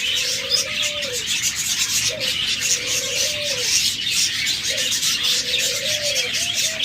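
Dove cooing three times, about every two and a half seconds: each coo a short rising note followed by a long drawn note that drops at the end. Behind it, steady chirping from many small cage birds.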